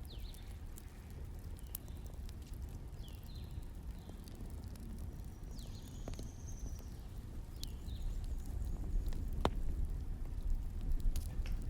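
Wood fire burning: a steady low rumble with scattered sharp crackles and pops, and a few short high squeaks and a brief whistle from the burning wood.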